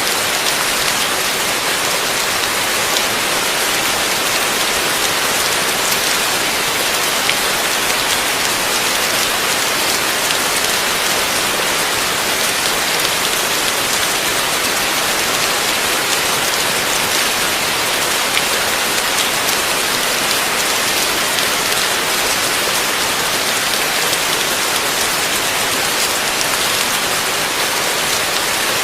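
Heavy rain falling steadily, a dense hiss of drops striking a surface with many small individual patters, without letup.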